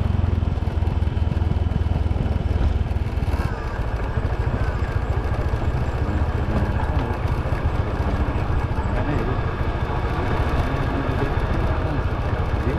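Motorbike running along a road, with a heavy, steady low rumble throughout.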